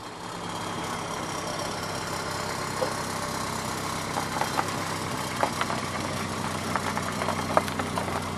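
Car engine running steadily at low speed as the car drives slowly up, with a few light clicks in the second half.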